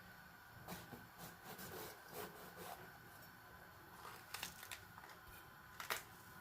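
Faint, irregular clicks, scrapes and rustles of kitchen utensils and food being handled, with a sharper knock near the end.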